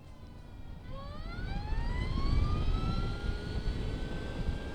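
Energica Experia electric motorcycle's motor whine rising in pitch as the bike accelerates from about a second in, then levelling off, over low wind rumble on the microphone that grows louder with speed.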